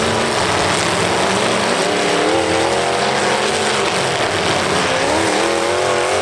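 Several demolition derby cars' engines revving at once, loud and continuous, their pitch repeatedly rising and falling as the drivers accelerate and back off.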